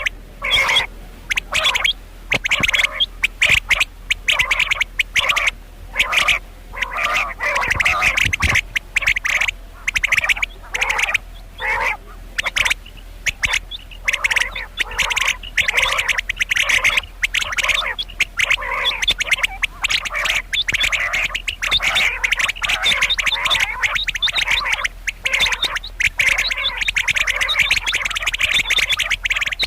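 Female common quail calling: a continuous string of short, rasping calls repeated over and over, the kind of call used to lure quail.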